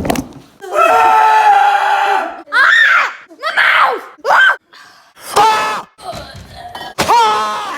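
Loud screaming and wailing while trying chips: one long held scream, then a string of shorter cries that swoop up and down in pitch.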